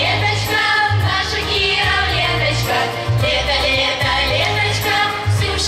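A vocal group singing a song with a steady beat and a bass line.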